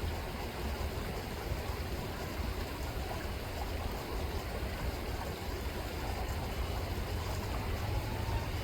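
River water rippling and rushing steadily, with a low rumble underneath.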